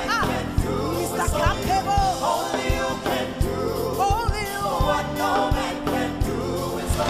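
Gospel worship music: singers or a choir with a band, over a steady drum beat.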